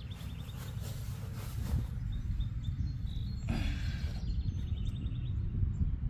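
Small birds chirping in quick runs of high notes, at the start and again about four seconds in, over a steady low rumble of outdoor noise.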